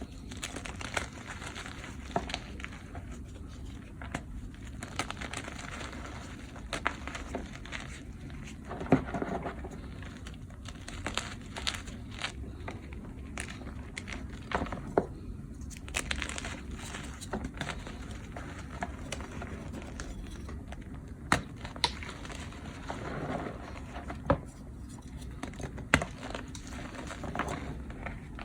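Blocks of dyed and reformed gym chalk being crushed: steady crumbling and crunching, scattered with sharp cracks as pieces snap, the loudest a few times through the stretch.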